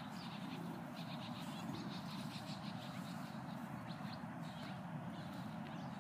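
Birds chirping in many short calls over a steady low background noise.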